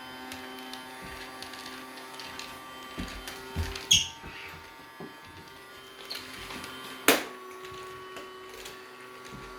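Small electric motor of a battery-powered toy Henry vacuum cleaner running with a steady hum, with a few knocks as it is handled, the loudest about four seconds and seven seconds in.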